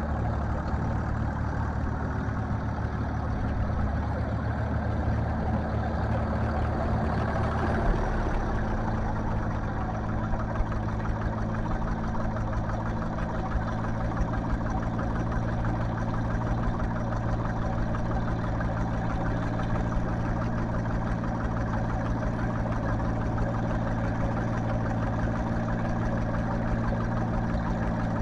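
Tractor engine running steadily, its low note shifting about eight seconds in.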